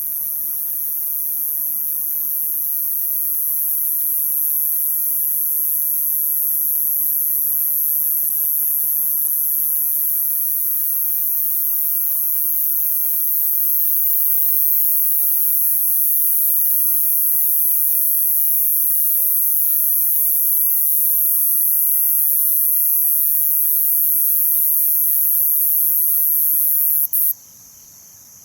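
Crickets and other night insects trilling in a loud, steady, very high-pitched chorus, with a second insect's fast pulsing call joining about halfway through. Near the end the loudest high trill cuts off suddenly and the whole sound drops much quieter.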